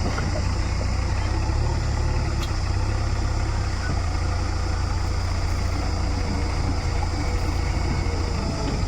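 Heavy diesel engine running steadily at low revs, a deep even drone that holds without change.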